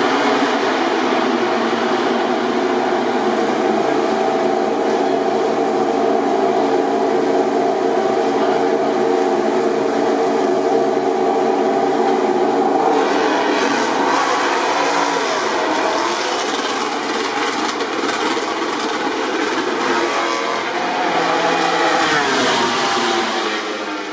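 MotoGP racing motorcycle engines running at a steady pitch for about thirteen seconds. The sound then grows noisier, and near the end a bike revs up with a rising note.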